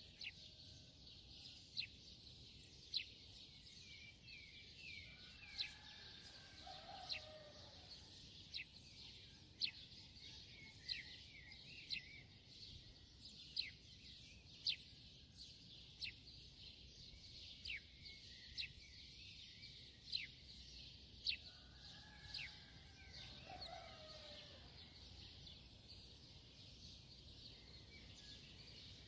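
Faint birds chirping: short, high notes that fall in pitch, about one or two a second, with a lower bird call twice, around five and twenty-two seconds in.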